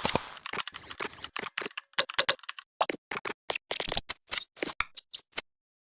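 A quick, irregular series of sharp clicks or taps, several a second, that stops about five and a half seconds in.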